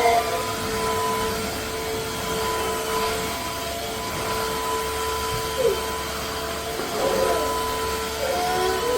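Tineco iFLOOR 3 Breeze cordless wet-dry vacuum mop running, a steady motor whine over rushing suction noise.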